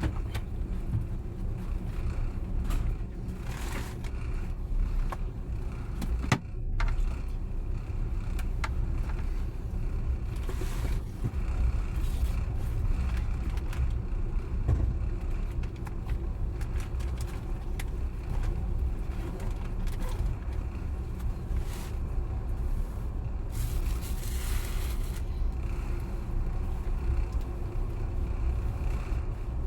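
Running noise inside a moving long-distance passenger train carriage: a steady low rumble of the wheels on the rails, with scattered clicks and knocks. A short burst of hiss comes about three quarters of the way through.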